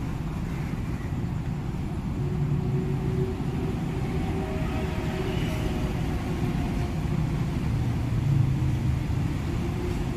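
Freight train of cement tank wagons rolling past, a steady low rumble of steel wheels on the rails, with faint steady tones in the middle.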